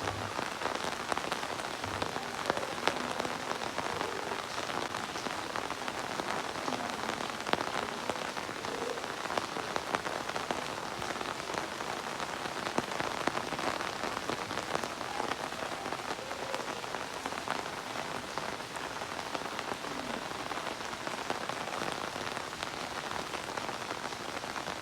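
Steady rain falling on hard surfaces, a dense patter of individual drops over a continuous hiss.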